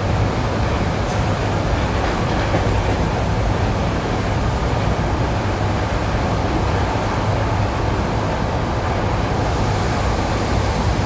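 ED9E electric train running, heard from inside the carriage: a steady low rumble of wheels and traction equipment at an even level, with only faint, scattered wheel knocks.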